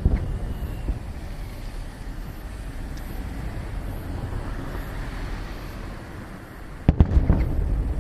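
Fireworks bursting: a sharp bang right at the start, then low rumbling echoes, and a cluster of loud bangs about seven seconds in.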